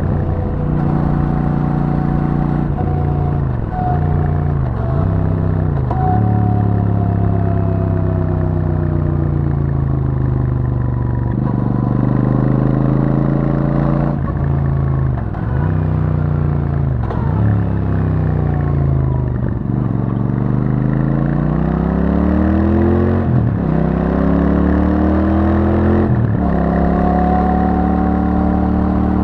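Royal Enfield Super Meteor 650's 648 cc parallel-twin engine running through its stock exhaust while riding, the revs rising and falling with several gear changes. The revs drop away for a long slowdown around the middle, then climb again as the bike pulls back up to speed.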